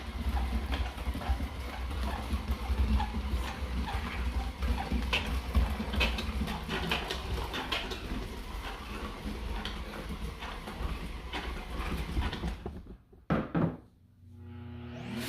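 Robot vacuum running over scattered Nerds candy, the small hard pieces clicking and rattling as they are swept up, over a steady low motor hum. About 13 seconds in it goes briefly quiet, then a motor starts up and rises.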